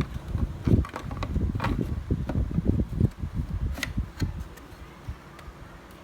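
Irregular low knocks and handling bumps with a few sharp clicks, from small objects being handled and set down, dying away after about four and a half seconds.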